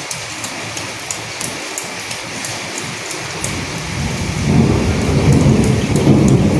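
Steady rain with scattered sharp drop ticks. About four seconds in, a low rolling rumble of thunder builds up and grows louder than the rain.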